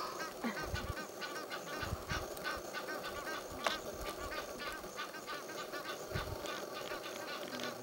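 Birds calling in a chorus, many short chirping and honking calls overlapping in quick succession, with a few low thuds underneath.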